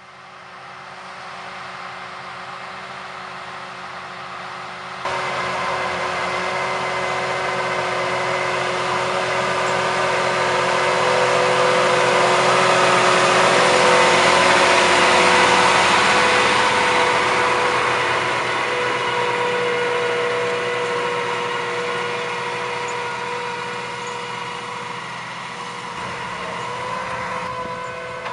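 John Deere 7280R tractor's diesel engine running hard, pulling a big twelve-furrow plough. It jumps louder about five seconds in, swells to a peak around the middle and then fades, as the tractor comes past and moves away.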